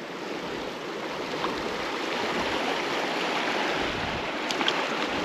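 River water rushing steadily, growing a little louder over the first couple of seconds, with a few faint ticks near the end.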